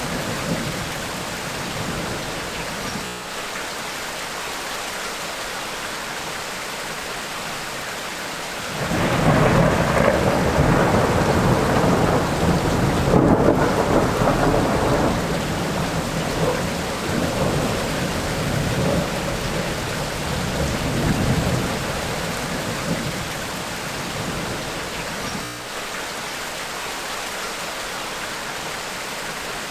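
Steady rain falling during a thunderstorm, with a long peal of thunder that breaks in suddenly about nine seconds in, rumbles for roughly ten seconds and then fades back under the rain.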